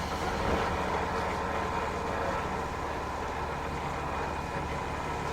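Inside a Matsumoto Electric Railway 3000 series electric train running along the line: a steady rumble of wheels and running gear.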